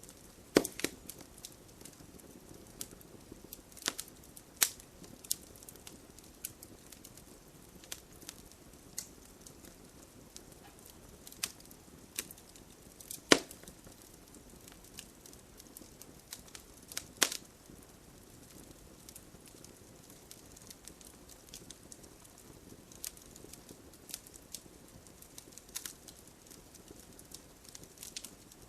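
Wood campfire crackling: a low steady hiss of the flames with irregular sharp pops and snaps, the loudest about 13 seconds in.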